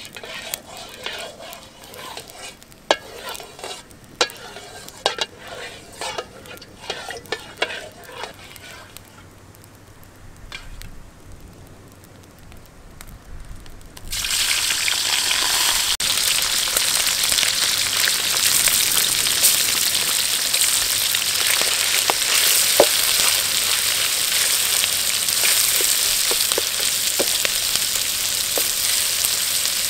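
A wood fire crackling with scattered sharp pops, then, about halfway in, chopped frog meat dropped into a hot steel wok starts a sudden loud sizzle. The sizzle holds steady with occasional pops while the pieces are stirred with a spatula.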